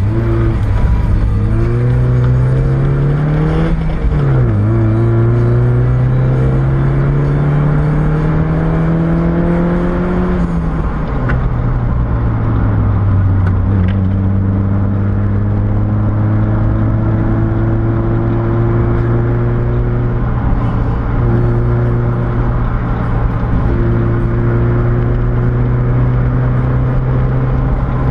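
Mazda MX-5's four-cylinder engine heard from inside the cabin under way. It pulls up through the revs, changes up a gear about four seconds in and pulls again. Around ten seconds in it eases off and settles to a steady cruise over tyre and road noise.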